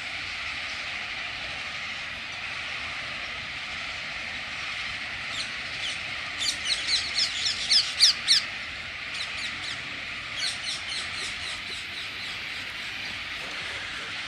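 A bird calling in two runs of rapid, sharp, high chirps: the first, about five seconds in, builds to the loudest notes, and a softer second run follows. A steady hiss lies under them.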